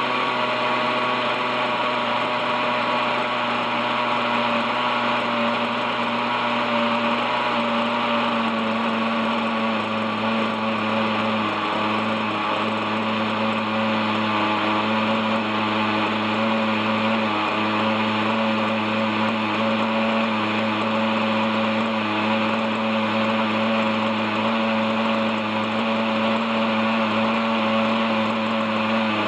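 OS 61SF two-stroke glow engine of a model helicopter running steadily at hover. Its pitch dips slightly about eight seconds in and then holds. The engine had been seized after thirty-odd years without maintenance, and its rusted bearings still add drag.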